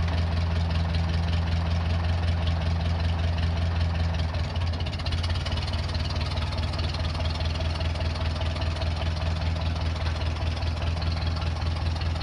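Engine idling steadily with a low, even hum; one part of its note drops away about four seconds in.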